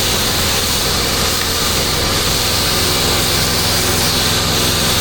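Pressure washer engine running steadily, with the hiss of water spraying from the wand as the gutters are washed.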